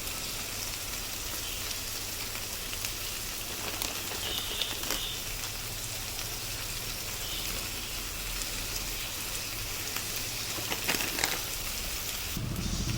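Chicken steak sizzling in a hot pan: a steady frying hiss with small crackles and a few louder pops.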